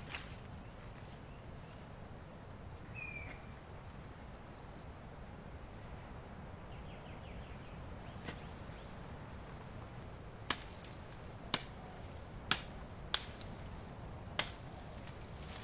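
Forest ambience with a faint repeating high insect buzz and a single short bird chirp about three seconds in, then five sharp knocks roughly a second apart in the second half.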